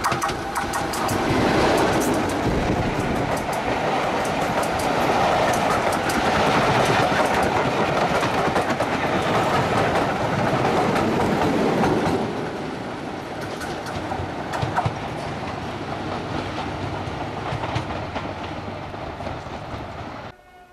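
Preserved diesel locomotive hauling a train past, its engine running under the clatter of the wheels clicking over the rail joints. Loudest for the first twelve seconds, then quieter, and it cuts off suddenly near the end.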